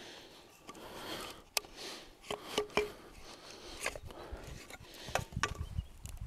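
Irregular sharp wooden knocks and clicks with some rubbing and scraping, the loudest few coming between about one and a half and three seconds in.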